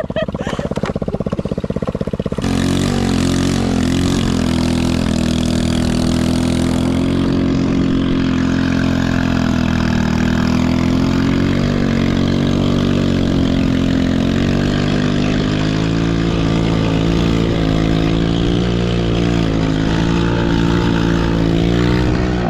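Small 110cc ATV engine running low for about two seconds, then opened up sharply and held on the throttle, its pitch rising and dipping as the revs change.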